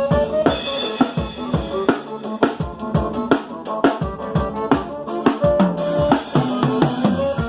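Drum kit playing a steady beat with kick and snare, with held pitched notes from other instruments underneath, as in a band's soundcheck.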